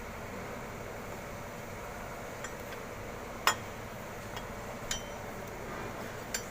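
A few short metallic clinks of tools or engine parts knocking together, the loudest about halfway through, over a steady background hiss.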